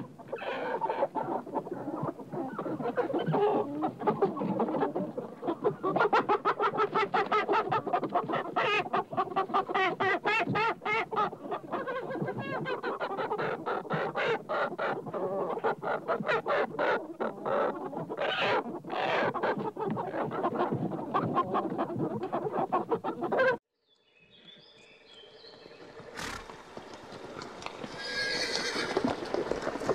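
Many birds calling in rapid, overlapping calls that cut off suddenly about 24 seconds in. A fainter sound then rises steadily in loudness toward the end.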